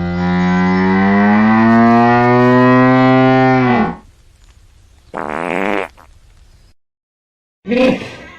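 A long, low animal call with a slowly rising pitch that ends about four seconds in, followed by two short calls.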